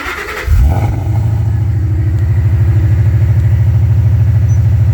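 Whipple-supercharged 2011 Ford Mustang GT's 5.0 Coyote V8 cranking on the starter and catching about half a second in with a brief flare. It then settles into a loud, steady idle.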